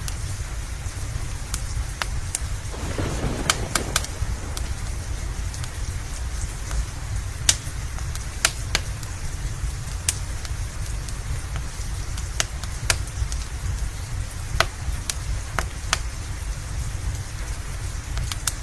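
Steady rain with a low rumble under it, and sharp crackles and pops from a wood fire every second or so. A brief swell rises about three seconds in.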